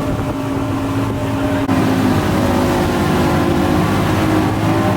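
A boat's motor running steadily, its engine note shifting about a third of the way in, with wind and water noise underneath.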